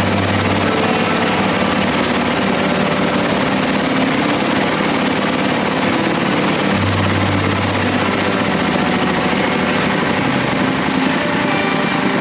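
Engine of a well-drilling rig running steadily and loud, with a low hum that swells and fades twice.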